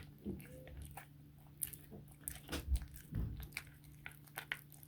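Cat gnawing on a raw chicken back: irregular wet crunches and cracks of bone and cartilage between its teeth, with a few heavier, duller knocks about halfway through.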